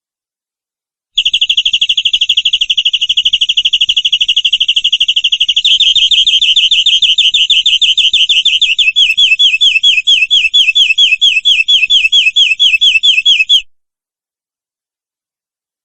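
Domestic canary singing a long rolling trill. It starts as a very fast, even roll, switches about six seconds in to a slower run of repeated down-slurred notes, about five a second, and stops abruptly.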